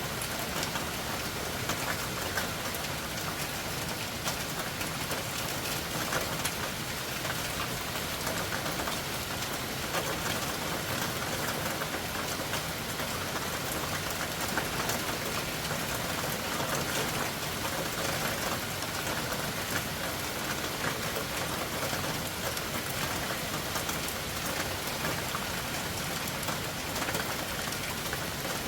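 Loud, heavy rain falling steadily at night: a dense, even hiss dotted with many small ticks of drops striking surfaces.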